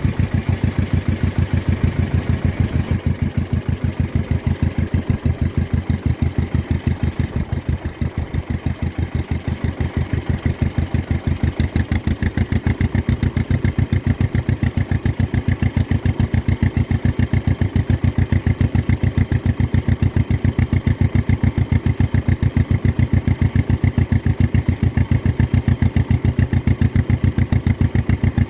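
1953 John Deere 40's two-cylinder engine running steadily, its exhaust popping in an even, rapid beat.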